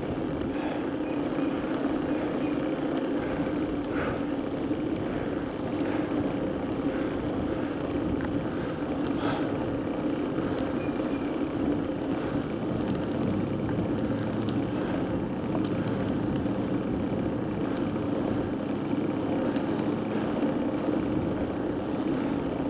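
Steady rolling noise of a bicycle being ridden, tyres humming on the road with air rushing past, and a few short clicks.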